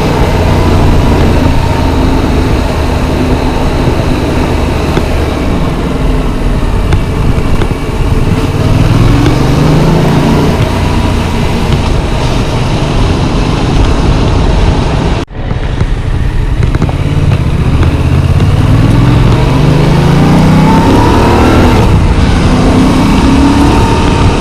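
Yamaha MT-07's parallel-twin engine under way over a steady rushing noise, its revs rising as it accelerates twice in the middle and again near the end. The sound cuts out for a moment about halfway through.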